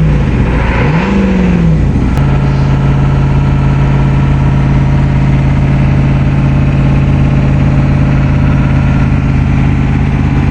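1987 Ford E350's 6.9-litre International diesel V8 revved twice in quick succession, then dropping back to a steady idle about two seconds in. It is still cold after a long cold start, with its cold-start timing advance stuck on, which the owner says makes it clattery.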